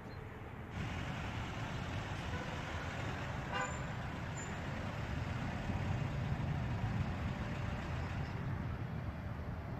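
A motor vehicle running, with a steady low rumble of engine and road noise. About three and a half seconds in there is one short, high toot.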